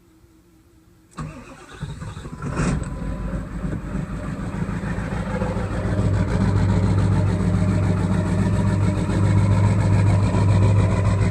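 A 7.3 Powerstroke turbo-diesel V8 cranks about a second in, catches, and settles into a rough idle. It is running on only four cylinders: the whole left bank does not fire when the engine is cold.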